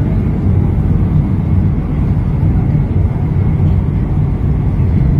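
Elevated metro train running along the track, heard from inside the car: a steady low rumble.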